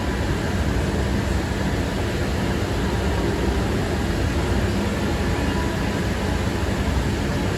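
Valley Metro light rail train running, heard from inside the passenger car: a steady low rumble with an even hiss over it.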